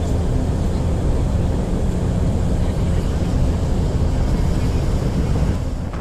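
Marine diesel engines running, a steady low drone with a faint hum in it, with some wind on the microphone.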